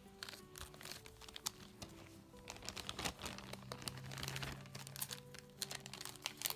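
Plastic packaging crinkling in irregular crackles as small toy pieces are handled and unwrapped, over soft background music with held notes.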